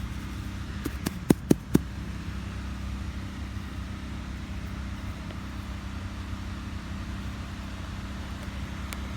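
A steady low machine hum, like an engine or motor running, with a quick run of four or five sharp clicks about a second in.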